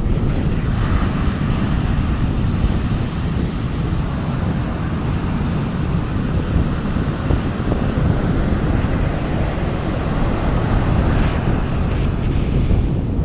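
Sea waves breaking and washing on a beach, with wind buffeting the microphone as a steady low rumble. The surf swells a little after the start and again near the end.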